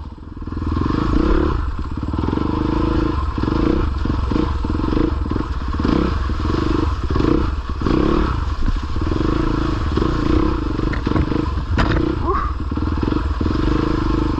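Dirt bike engine running at low speed, the throttle opened and closed again and again as the bike picks its way through a rutted trail section. A single sharp knock comes about 12 seconds in.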